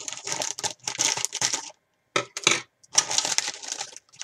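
Crunching of Japanese rice crackers being bitten and chewed: a fast run of crisp cracks with a short pause about two seconds in.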